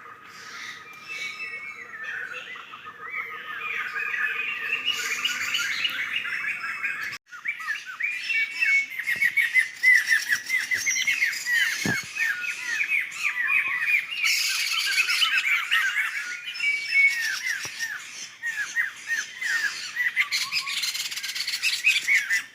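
A flock of laughingthrushes chattering, with many dense, overlapping short calls. The calls break off for a moment about seven seconds in, then resume.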